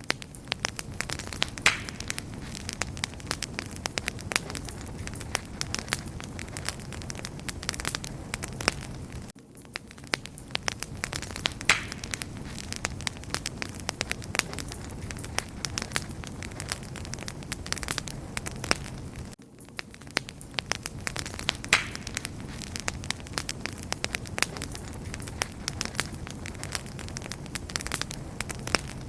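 Wood fire crackling steadily: dense sharp pops and snaps over a low rumble of burning. The sound dips briefly about every ten seconds.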